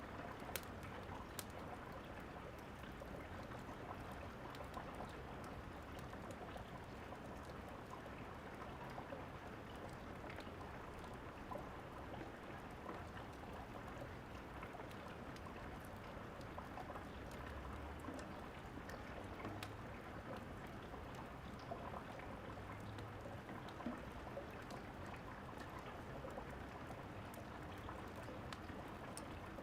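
Steady rain hissing, with scattered sharp crackles and pops of a fireplace sound laid over it.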